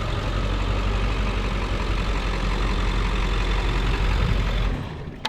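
A machine running steadily with a strong low hum, cutting off near the end.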